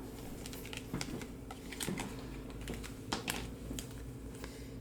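Faint, irregular light clicks and taps of Topps Chrome baseball cards being handled, shuffled and set down.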